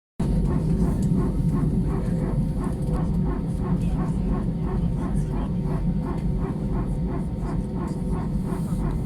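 Steady low mechanical rumble with a faint regular pulsing about three times a second.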